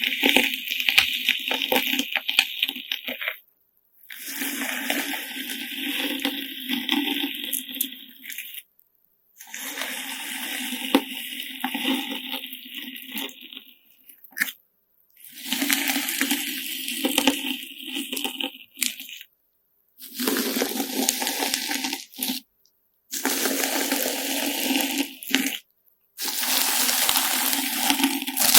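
Homemade slime mixed with coloured sand being worked by hand, making crunchy, crackling and squishy sounds. It comes in about seven short takes of a few seconds each, with brief silent breaks between them.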